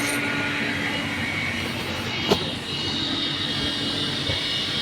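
Steady hum of running machinery aboard the yacht, with one sharp click a little over two seconds in.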